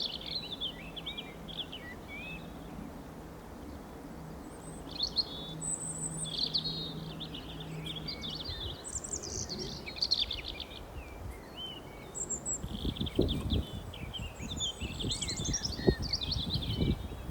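Songbirds singing outdoors: fast, warbling, chattering phrases repeating every second or two. In the last few seconds, irregular low rumbles come in underneath the song.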